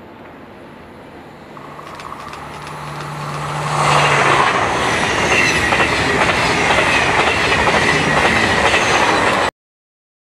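A train approaching and passing, growing louder over a few seconds into a loud steady rush of wheels on the rails. The sound cuts off suddenly near the end.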